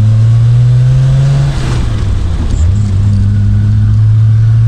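Triumph Vitesse Mk2's 2-litre straight-six engine pulling under acceleration, its note rising. About a second and a half in the note breaks off and returns lower, as with a gear change, then climbs again.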